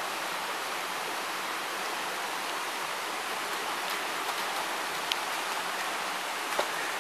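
Mountain stream water rushing steadily, an even, unbroken wash of noise, with a few faint ticks in the second half.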